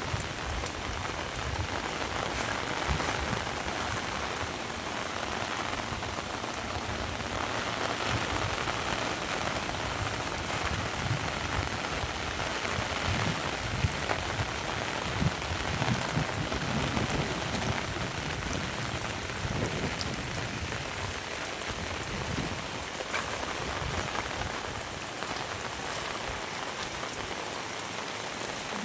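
Heavy rain falling steadily, an even hiss with scattered sharp drop hits.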